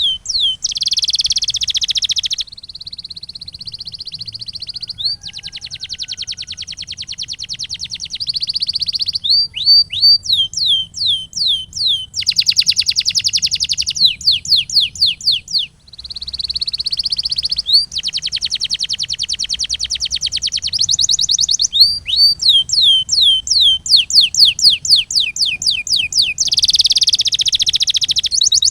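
Canary singing a continuous song that switches every few seconds between runs of quick, downward-sweeping whistled notes, fast rolling trills, and steadier buzzy phrases.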